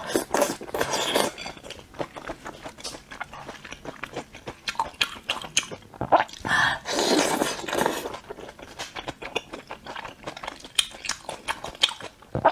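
Close-miked chewing and biting of spicy sauce-coated skewered food: many quick wet mouth clicks and crunches, with a louder, longer bite about seven seconds in.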